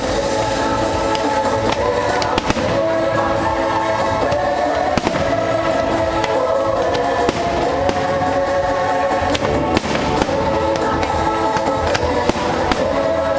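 Fireworks bursting, many sharp bangs scattered throughout, over loud sustained show music playing across the whole stretch.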